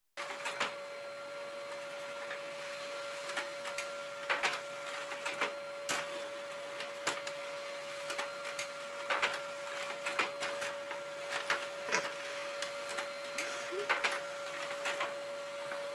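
A small machine running with a steady hum and a whirring noise, with irregular clicks and knocks over it.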